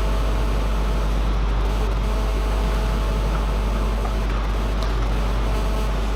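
A steady low hum with an even wash of background noise, unchanging throughout, with no clear ball strikes standing out.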